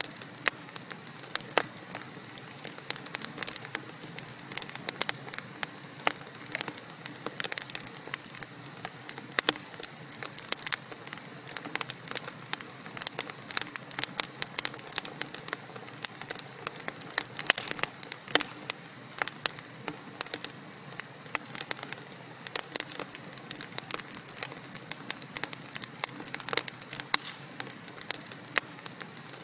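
Wood fire of burning logs in a fireplace crackling, with dense, irregular sharp pops and snaps over a steady soft hiss.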